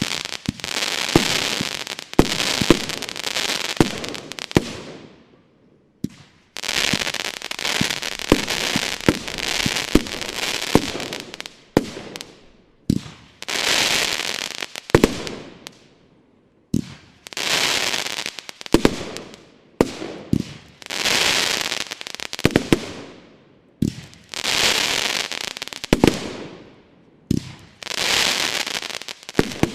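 Pyroland BKS Ultra 30 mm, 25-shot firework battery firing. Sharp launch reports come in groups, each followed by a few seconds of dense crackling. There are about nine such volleys with short pauses between them.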